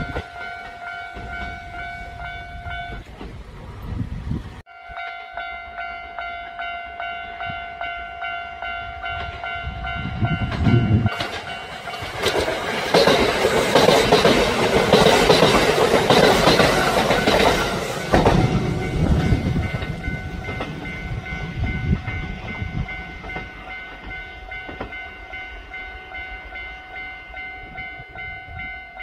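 Train running on the rails with a steady whine. A louder rushing stretch comes in about twelve seconds in and lasts about six seconds, then the sound settles back to the steady run.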